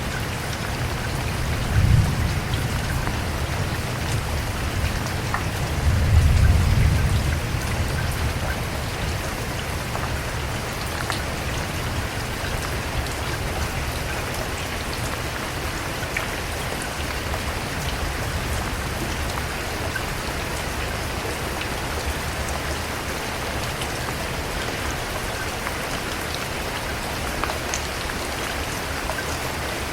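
Steady rain falling, an even hiss scattered with small drop ticks. Two short low rumbles swell up about two seconds in and again around six seconds in.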